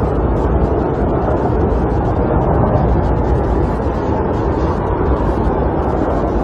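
Snowstorm wind blowing against a camper, heard from inside: a loud, steady, low rushing rumble.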